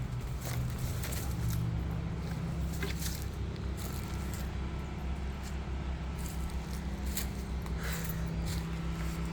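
A steady low mechanical hum with scattered light clicks and rustles.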